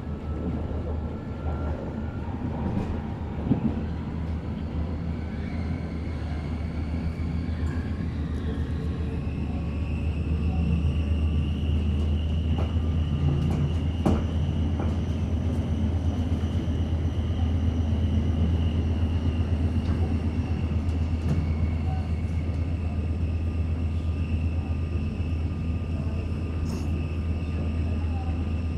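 Forchbahn metre-gauge electric train running, heard from inside the passenger car: a steady low rumble of wheels on rails with a couple of sharp knocks. About a third of the way in a high whine sets in and the running grows louder.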